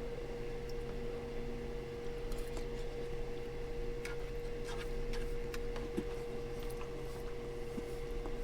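Light, scattered clicks and taps of a utensil against a bowl while eating, over a steady low hum with a thin, constant whining tone.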